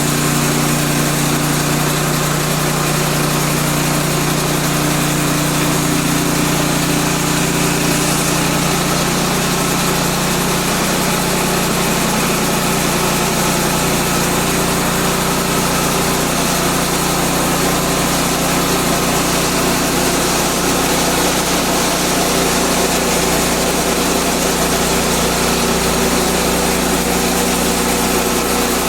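Petrol engine of a Woodland Mills portable band sawmill running steadily at speed, with a fainter higher hum that fades out about nine seconds in.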